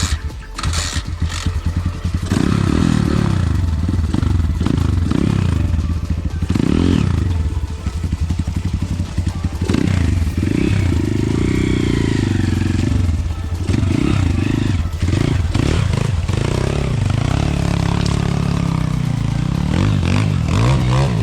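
Pit bike / enduro motorcycle engine revving up and down over and over under throttle, with some clatter. The engine sound steadies and grows loud about two seconds in.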